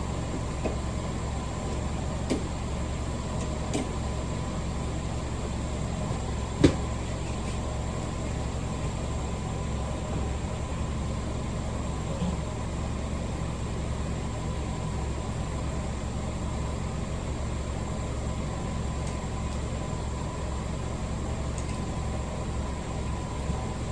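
A steady low hum, with a few light clicks and one sharp click about seven seconds in, as jumper-cable clamps are handled and attached.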